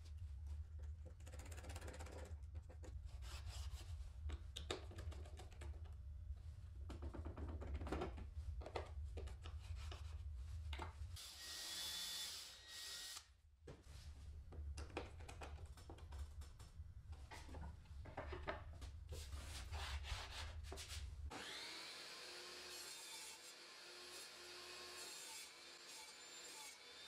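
Woodworking tool sounds: repeated knocks and scraping on wood, a power tool whirring briefly about halfway through, and a steadier machine run over the last few seconds.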